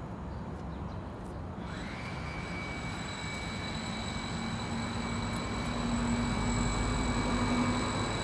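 A passing vehicle: a low rumble that grows louder toward the end, with a high whine that glides up about two seconds in and then holds steady.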